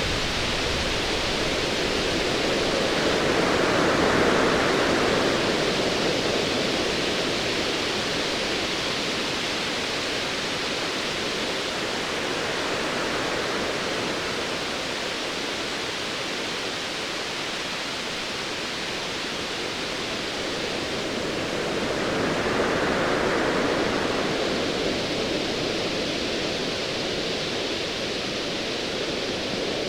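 Ocean waves: a steady wash of surf that swells twice, about four seconds in and again a little past twenty seconds.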